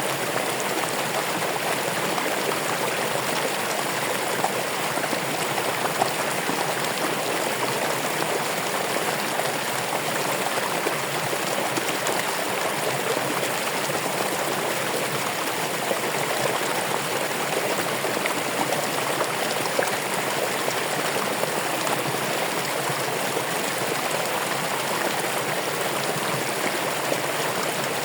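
Running water: a stream flowing with a steady, even rush and small splashes.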